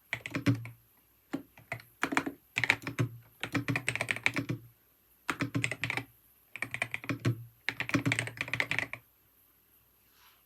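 Typing on a computer keyboard: quick runs of key clicks in several bursts with short pauses between them, stopping about nine seconds in.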